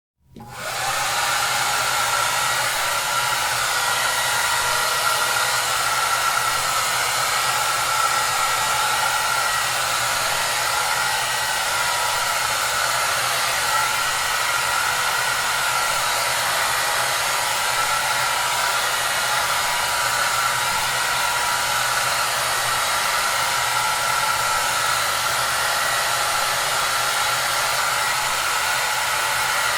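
Hair dryer running steadily: an even rushing hiss with a high whine and a low motor hum underneath. It comes up quickly out of silence at the start, then holds without change.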